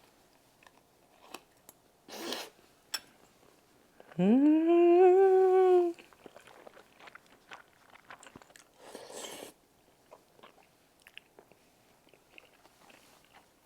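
Close-up chewing of cheese-topped tteokbokki rice cakes, with small wet mouth clicks. About four seconds in, the eater gives a loud, contented "mmm" hum that rises and then holds for about two seconds.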